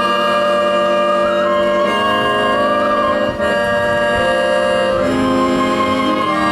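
Live folk ensemble playing: held chords that change every second or two, under a wavering, ornamented high melody on a wind instrument.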